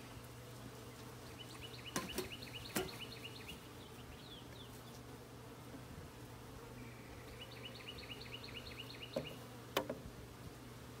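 Honeybees humming steadily around an opened hive, with a few sharp knocks, four in all, two about two seconds in and two near the end. A bird chirps in quick runs twice in the background.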